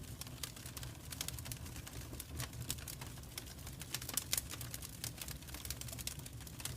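Fire in a fireplace crackling, with many irregular sharp pops and snaps over a low steady rumble.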